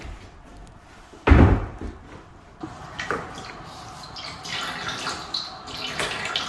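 A single heavy thump a little over a second in, followed by lighter knocks and clatter.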